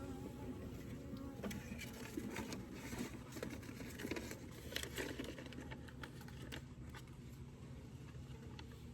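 Irregular clicking and scraping as beehive frames and cut brace comb are handled, busiest through the middle. A honeybee buzzes close by at the start and fades within the first second.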